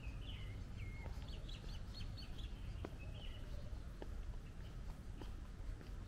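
Songbirds chirping and whistling in short trills and glides during the first three seconds or so, over a steady low rumble, with faint steps about once a second.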